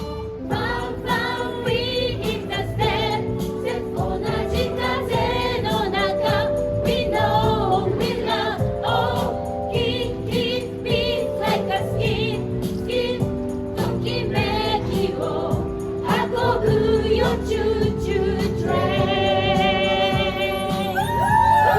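A choir sings an upbeat song live over backing music with a steady beat. Near the end the voices hold one long chord, then slide down.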